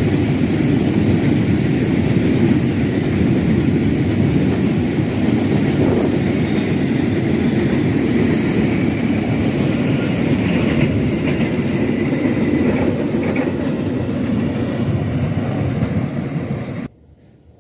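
A freight train of fuel tank wagons rolling past at close range, a loud steady rumble of wheels on the rails with some clatter. It cuts off suddenly near the end.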